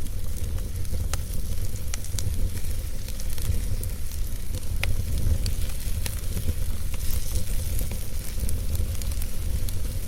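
Wood burning in a fireplace: a steady low rumble of flames with scattered sharp crackles and pops from the wood, one of them a little stronger about halfway through.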